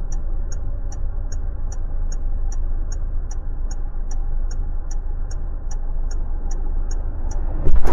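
Stationary motorbike with a low engine rumble and a high, even ticking about three times a second, like an indicator or hazard-light beeper. A sudden loud knock or rustle comes near the end.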